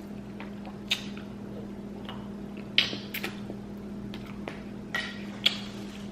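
Close-up mouth sounds of eating a buttery seafood boil: a few scattered wet smacks and slurps, the loudest about halfway through, over a steady low hum.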